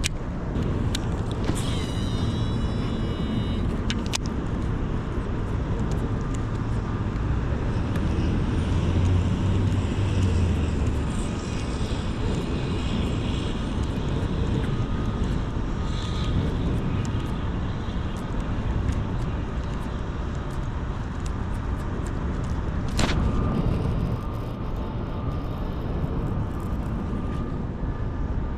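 Steady rumble of city road traffic, swelling for a few seconds about a third of the way in, with scattered faint clicks and one sharp click near the end.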